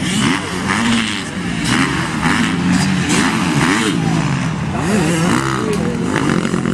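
Several motocross bikes riding a dirt track, their engines revving up and dropping back again and again, overlapping one another.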